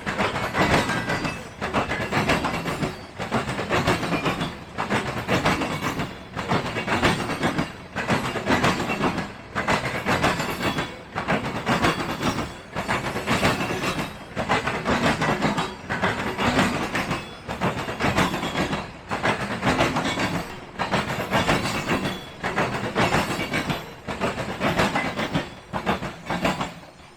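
Freight train cars rolling past at speed, their wheels clacking over rail joints in a steady, even rhythm of about one beat every three-quarters of a second.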